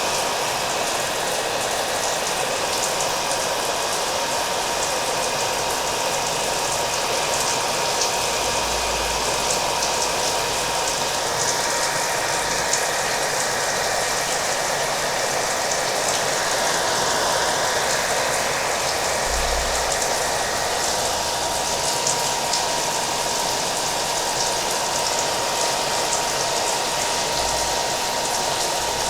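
Electric hair dryer running steadily with a thin motor whine, mixed with the patter of rain.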